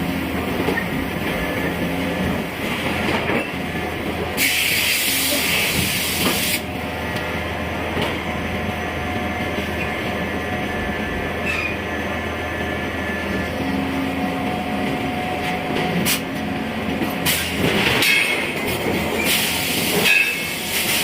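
Steady rumble of heavy forging-shop machinery, with a loud hiss lasting about two seconds a few seconds in and a few sharp clanks near the end.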